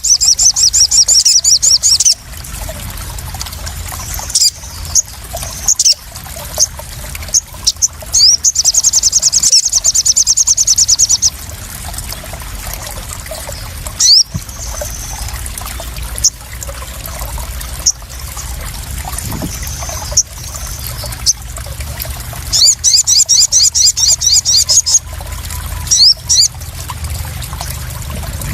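Sogon (crimson sunbird) song used as a lure: three bursts of fast, high, trilling chirps, each two to three seconds long, with scattered single chirps between them, over steady splashing and trickling water.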